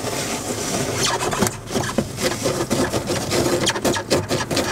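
A vehicle engine running while driving slowly, with frequent knocks and rattles throughout.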